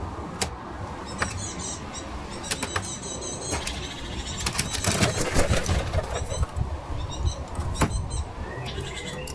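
Small birds chirping in short notes at a bird table, with wing flaps and scattered sharp clicks over a steady low rumble.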